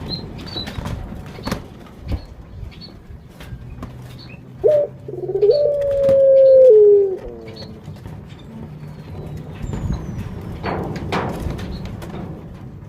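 A puter (ringneck) dove cooing once, about five seconds in: a short note, then one long, slightly falling coo. Faint high chirps from other small birds and scattered sharp clicks can be heard around it.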